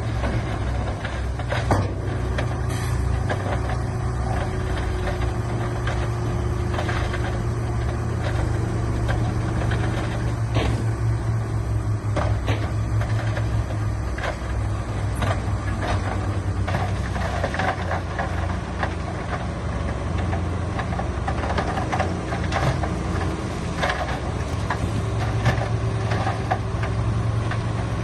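Diesel engine of heavy construction machinery running steadily, with scattered sharp knocks and clanks.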